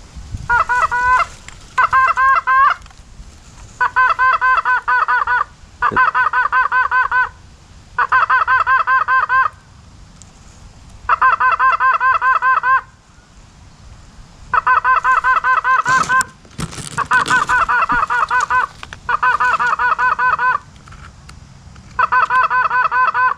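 Hand-blown goose call worked by hunters: about ten runs of rapid honks and clucks, each a second or so long with short pauses between, calling incoming geese in to land.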